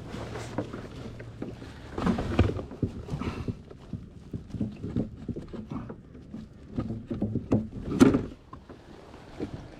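Irregular knocks and clatter of fishing gear against a kayak as a landing net is readied, with one sharper, louder knock about eight seconds in.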